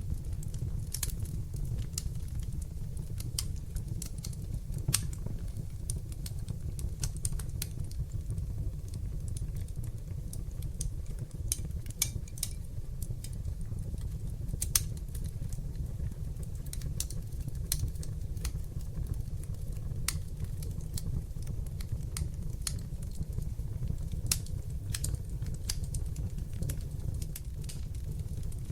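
Wood fire in a fireplace crackling, with frequent irregular sharp pops and snaps over a steady low rumble of the flames; a few pops stand out louder.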